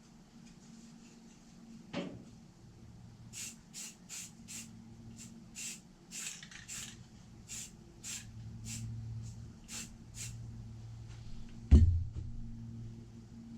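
Bench work on a starter motor: a knock, then a run of about fifteen short hissing strokes, then a heavy thump near the end, over a steady low hum.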